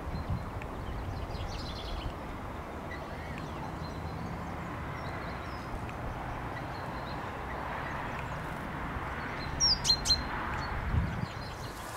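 Birds chirping and calling beside a lake over a low, steady background rumble, with a few loud, sharp chirps about ten seconds in.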